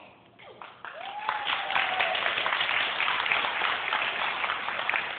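Audience applauding, starting about a second in and going on strongly, with one short voice call over the clapping near the start.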